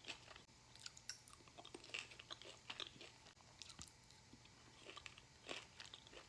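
A person chewing food close to the microphone: faint, irregular wet mouth clicks and soft crunches.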